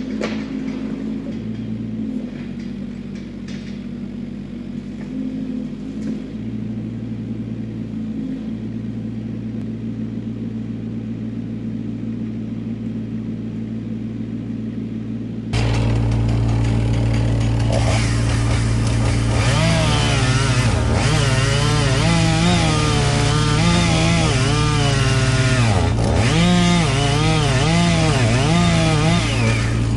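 An engine idling steadily, then about halfway a chainsaw opens up to full throttle and cuts into a dead Douglas fir, its pitch dipping and recovering again and again as the chain loads up in the wood.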